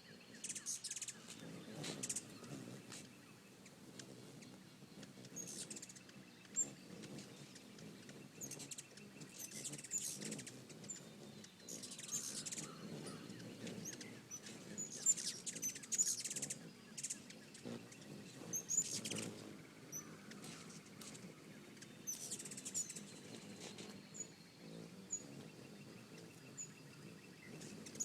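Hummingbirds chipping, with short high chips scattered throughout and repeated bursts of rapid high chatter.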